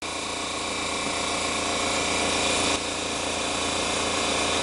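Power wrench running steadily as it spins bolts out. It starts abruptly, with a brief dip about three seconds in.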